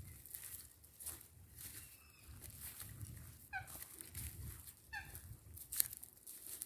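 Two short bird calls, about a second and a half apart, among scattered clicks and rustling, with one sharp click near the end.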